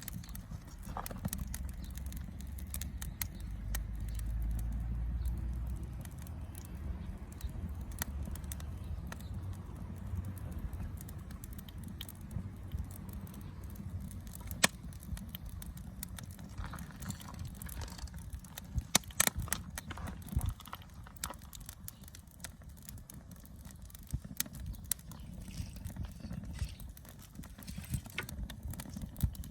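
Wood campfire crackling, with scattered sharp pops and snaps over a low rumble; the loudest pops come singly about fifteen seconds in and in a quick cluster around nineteen to twenty seconds.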